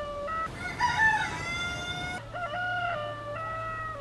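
Rooster crowing several times in a row, each crow a drawn-out, stepped call.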